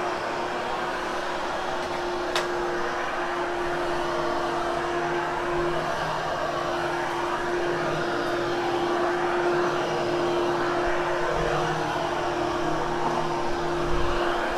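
Hoover Hushtone vacuum running steadily over carpet, grooming the pile of a freshly cleaned, barely damp carpet: an even rushing motor-and-air noise with a steady hum. A single sharp click about two seconds in and a low bump near the end.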